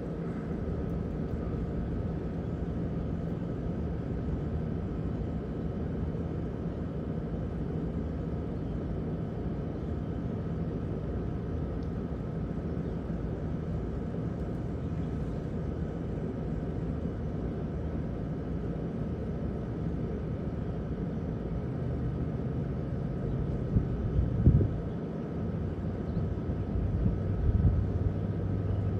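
A steady low mechanical hum and rumble, like a distant engine or machinery, with a brief louder low thump about 24 seconds in.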